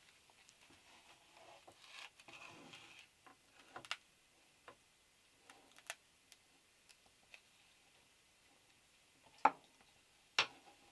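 Sparse raindrops ticking irregularly on the van's metal roof, with two louder clicks near the end.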